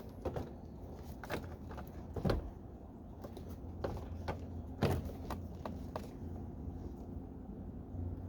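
Scattered plastic clicks and knocks from handling the wiring-harness connectors behind a truck door panel, the loudest two about two seconds and five seconds in, over a steady low hum.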